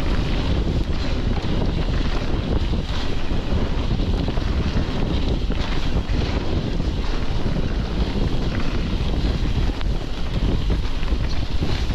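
Steady wind rumble on the microphone of a mountain bike descending fast on a trail, with tyre and trail noise underneath.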